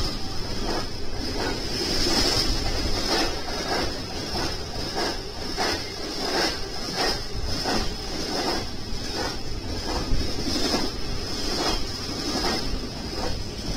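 A double-stack container freight train passing close by: the steady rumble and rush of its wheels on the rails, with rhythmic clicking about twice a second as the wheels cross rail joints.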